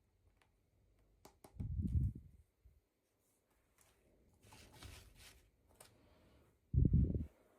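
Small packaging and toy parts being handled: light clicks and a short rustle, with two dull low thumps, one about two seconds in and one near the end.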